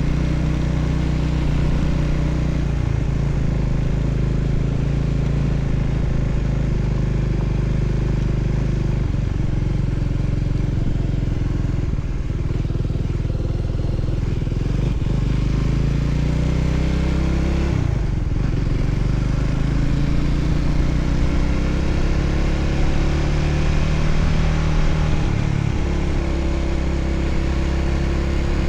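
Voge 300ACX motorcycle's engine running steadily while riding, its pitch sliding up and down at times as the speed changes.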